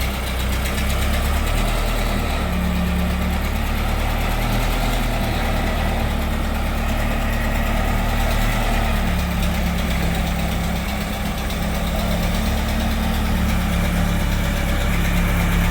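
A crane truck's engine running steadily at idle, with a low, even hum.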